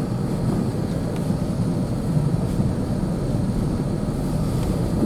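Truck driving on a back road: a steady low rumble of engine and tyres.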